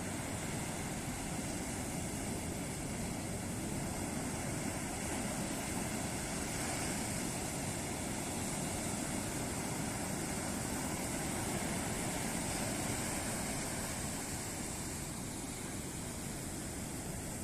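Ocean surf breaking on a beach: a continuous rushing wash that builds a little in the middle and then eases, with no single sharp crash.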